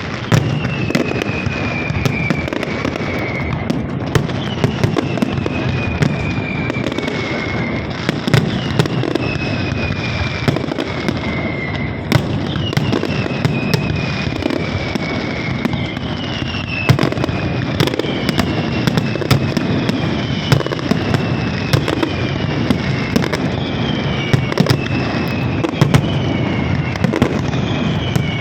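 A fireworks display: continuous dense crackling with many sharp pops and bangs. A high whistle that falls in pitch recurs about every two seconds.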